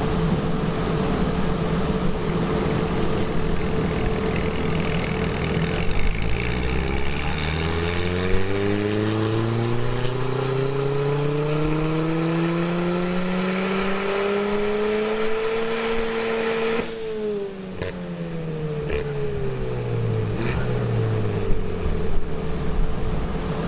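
Turbocharged Ford Fiesta ST engine on a rolling-road dyno doing a full-throttle power run. After a few seconds at steady revs, the revs climb smoothly for about ten seconds; then the throttle is lifted suddenly and the engine and rollers wind down.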